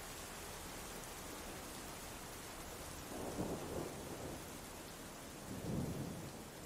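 Steady rain, with two low swells of thunder rumble in the second half.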